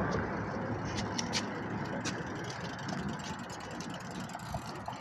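Steady wind and road rumble from riding a bicycle, with a few scattered sharp clicks and rattles.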